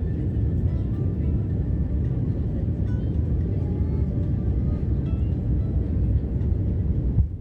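Steady low rumble of an airliner heard from inside the cabin, which drops off abruptly near the end.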